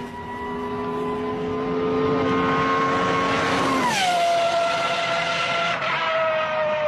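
V12 supercar engine and exhaust running hard. The engine note climbs slowly, then drops sharply in pitch about four seconds in and keeps sliding lower as it fades slightly.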